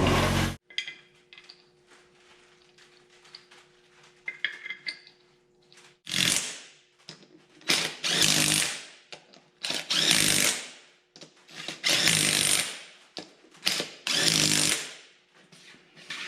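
A blast of compressed air from a bead blaster ends about half a second in as the tire bead is reseated on the rim. From about six seconds in come five or six short bursts of air hiss, about one every two seconds, as compressed air is put into the lawn tractor tire.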